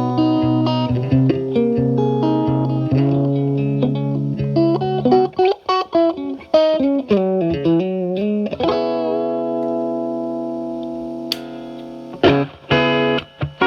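Fender Stratocaster with single-coil pickups played through a Paul Cochrane Timmy overdrive set to low gain, into the clean channel of a Marshall Valvestate amp. A held bass note rings under picked melody notes, then comes a quick run with bent notes. A chord is then left ringing and slowly fading, and fast picking starts again about twelve seconds in.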